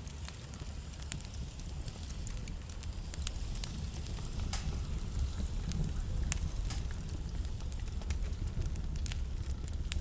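Wood fire burning in a fireplace: a steady low rumble of flame under irregular sharp crackles and pops from the burning logs.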